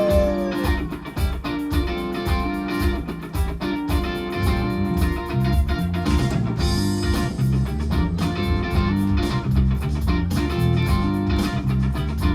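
Live band playing an instrumental groove: electric guitar strumming a rhythmic riff over bass guitar and drums with a steady beat.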